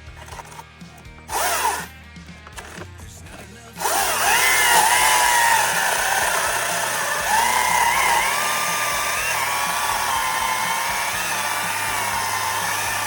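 STIHL battery chainsaw: a brief burst of the electric motor and chain about a second and a half in, then from about four seconds a steady high whine that wavers up and down in pitch.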